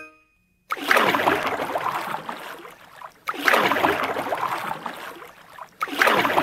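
Canoe paddling sound effect: water splashing and sloshing in three surges about two and a half seconds apart, each starting suddenly and fading away. The tail of a piano note dies out at the very start.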